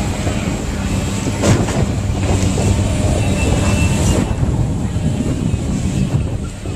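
Heavy demolition machinery running, its engine a steady low hum, with two sharp impacts about one and a half and four seconds in as the building is torn down.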